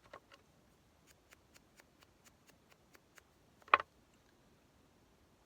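Scissors snipping paper: a quick, even run of about ten short snips at roughly four a second, then one louder clack.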